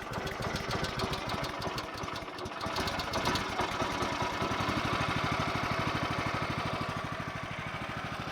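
The Woodland Mills HM130 sawmill's 14 HP Kohler single-cylinder engine has just been started. It runs unevenly for a few seconds, then settles into a steady idle with even firing pulses.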